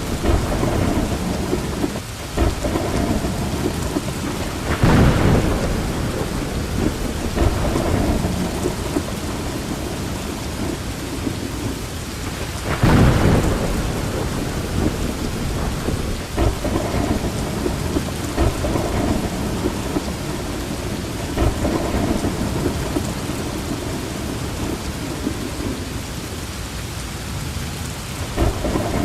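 Steady heavy rain with rumbling thunder, the thunder swelling loudest twice, about five seconds in and again about thirteen seconds in.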